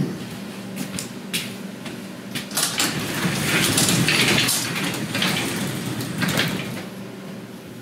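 Garage door being opened: a few knocks, then a rising clatter and rattle that is loudest about halfway through.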